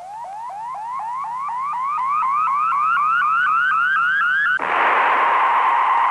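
Electronic sound effect: a train of short rising chirps, about four a second, climbing in pitch and growing louder, that cuts suddenly about four and a half seconds in to a steady loud hiss.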